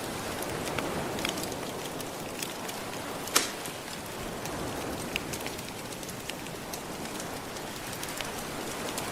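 Soft ocean waves washing on the shore, with a wood fire crackling over them in many small snaps and one louder pop about a third of the way through.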